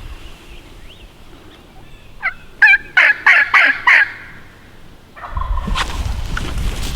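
A wild turkey gobbler gobbling once: a loud, rattling run of about six quick pulses lasting about two seconds. Low wind rumble on the microphone follows near the end.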